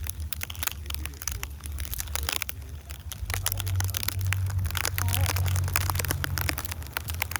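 Snow crunching and crackling close to the microphone, over a low rumble that swells for about three seconds in the middle.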